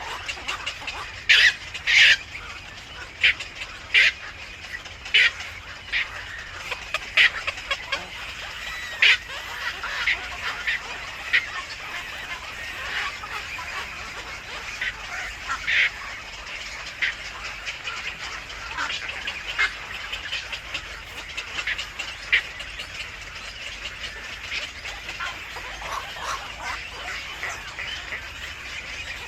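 Birds calling in a string of short, sharp, high-pitched notes, the loudest ones spaced out over the first ten seconds, with many fainter calls continuing throughout.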